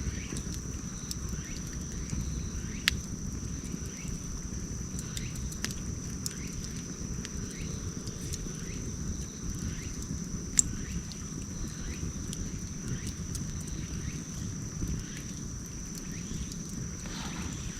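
Campfire burning: a steady low rumble of flames with scattered crackles and sharp pops, the loudest about 3 seconds and 10 seconds in. A steady high-pitched tone and faint, regularly repeated short chirps run underneath.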